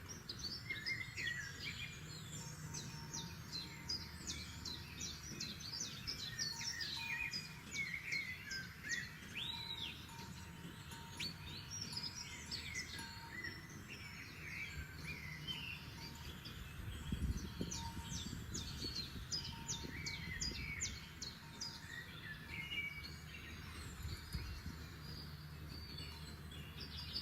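Several forest songbirds singing together: a continuous chorus of quick high chirps, trills and short whistled notes, over a low steady background rumble.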